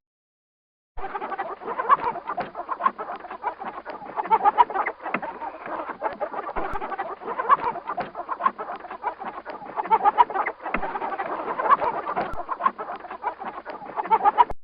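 Chickens clucking, many short calls overlapping in a busy, continuous chatter that starts about a second in.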